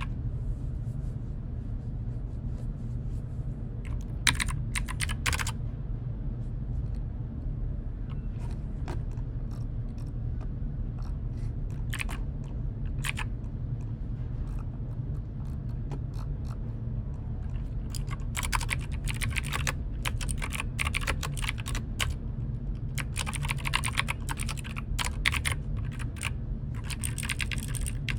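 Computer keyboard typing: a short burst of keystrokes about four seconds in, scattered single keys, then near-continuous typing over the last ten seconds. A steady low hum runs underneath.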